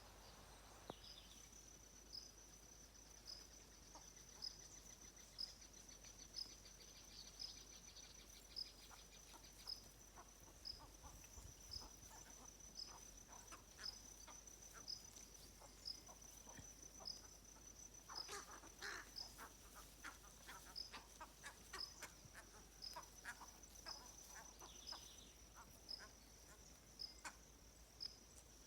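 Faint insect chorus: a steady high-pitched drone with a short chirp repeating about once a second. Around two-thirds of the way through comes a brief cluster of short clicks and calls.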